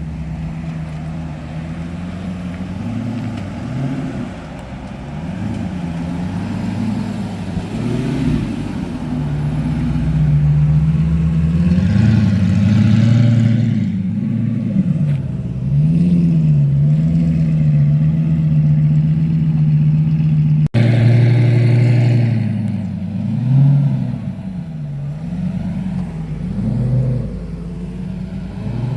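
Car engine running and being revved, its pitch rising and falling again and again. It holds steady at higher revs for several seconds in the middle, and the sound briefly cuts out about two-thirds of the way through.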